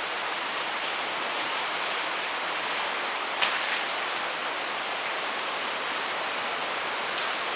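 Steady hiss of wind, with one brief rustle about three and a half seconds in.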